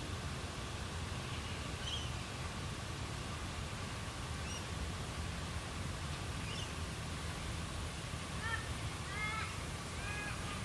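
Bush ambience at dusk: scattered short bird chirps, then from about eight seconds in a run of short repeated bird calls, over a steady low rumble.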